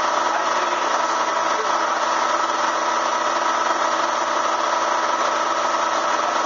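Bee vacuum's motor running steadily with an even drone.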